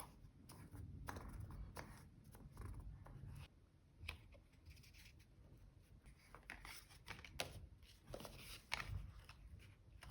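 Quiet paper and stationery handling while decorating a diary page: soft rustles and scratchy strokes with a few sharp little clicks.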